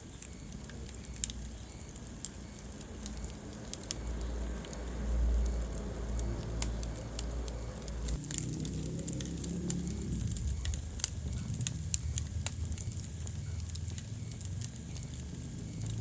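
Wood fire crackling in a fireplace: irregular sharp pops and snaps over a low rumble, which swells for a few seconds midway.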